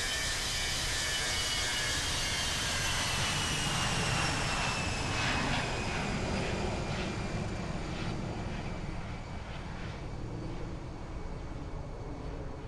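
Boeing 737 jet engines at takeoff power: a steady roar with a high whine that slowly falls in pitch, loudest about four to five seconds in and then easing off.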